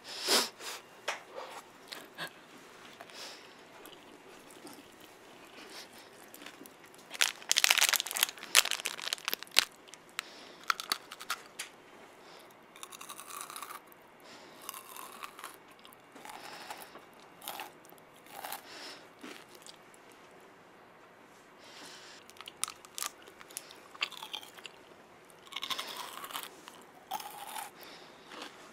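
Biting and crunchy chewing of a yellow Minion-shaped sweet close to a microphone, in irregular bursts of crunches with the loudest crunching about seven to ten seconds in and again around twenty-five seconds in.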